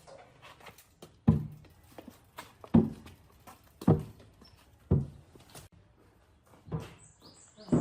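A series of heavy knocks, about one a second, each dying away quickly, like blows struck on wood. Near the end a bird starts chirping in short high notes.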